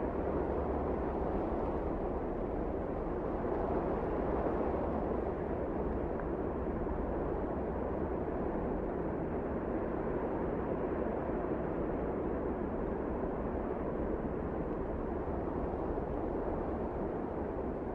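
Wind blowing steadily, a deep rushing noise that swells slightly a few seconds in.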